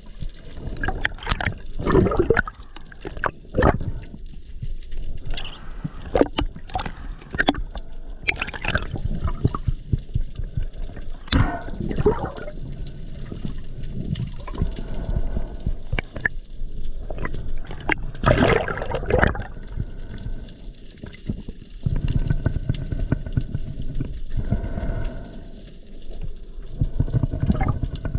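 Water gurgling, bubbling and sloshing in irregular surges, with sharp splashy strokes, around a spearfishing free diver.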